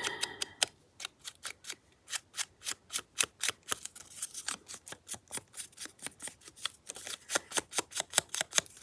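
Scissors snipping paper, a quick, even run of short crisp snips at about four a second.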